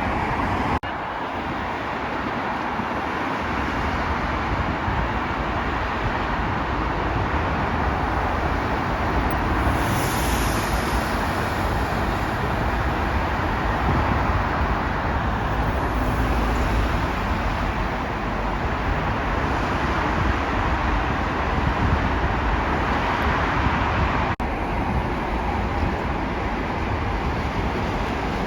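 Steady rushing and rumbling of a high-speed train running along the line, with two abrupt cuts in the sound, about a second in and near the end.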